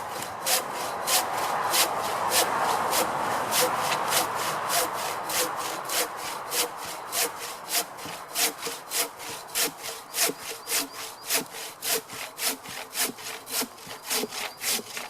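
Sharp Taiwan-made hand saw with unset teeth cutting through a piece of firewood: steady back-and-forth rasping strokes, about three a second.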